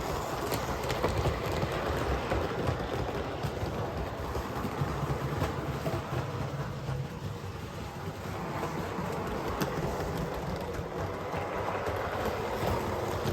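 Large-scale Bachmann model locomotive running steadily along the track, pulling a wagon: a continuous motor and wheel rumble with occasional clicks from the rails.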